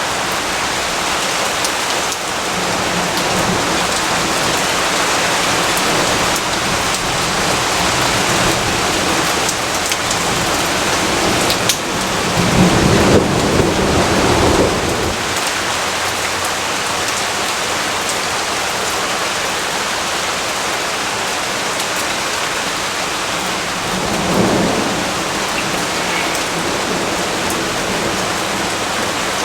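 Steady heavy rainfall, with a low rumble of thunder about twelve seconds in that lasts a few seconds, and a shorter, fainter rumble later on.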